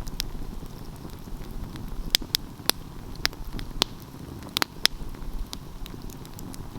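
Wood fire burning, with sharp crackles and pops coming at irregular intervals over a low, steady rush of flame. Several pops come close together about two seconds in and again near five seconds.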